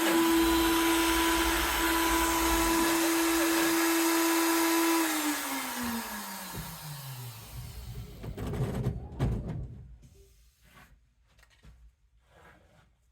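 CNC router spindle running with a steady whine, then switched off about five seconds in, its pitch falling as it spins down over a couple of seconds. A few knocks and handling sounds follow, then it goes nearly quiet with faint clicks.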